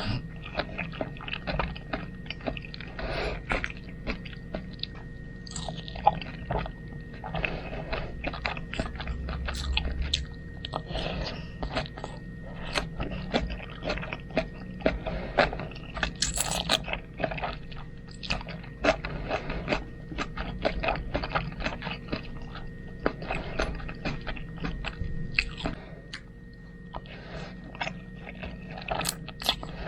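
Close-miked eating of spaghetti: chewing with many irregular wet mouth clicks and smacks, over a faint steady electrical whine.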